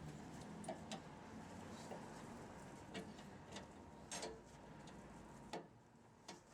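Faint, irregular light clicks and knocks, about seven spread unevenly over several seconds, over a quiet background.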